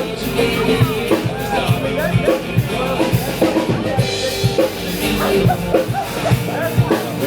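Live band music with a drum kit keeping a steady kick-drum beat, over the chatter of a crowd.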